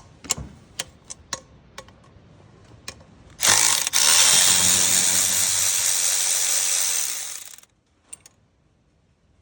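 A few light clicks as the socket is fitted. About three and a half seconds in, a power tool runs for about four seconds, with a brief stutter just after it starts, as it spins out the 7 mm bolt that holds the oil dipstick tube on the Ranger's 2.3 four-cylinder. It then stops abruptly.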